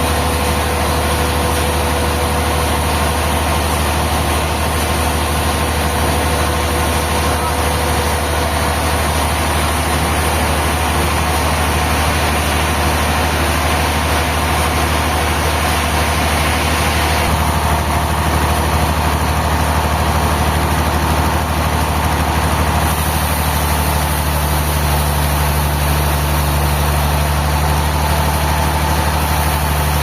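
Sawmill machinery running with a steady engine drone; the higher part of the sound changes about seventeen seconds in.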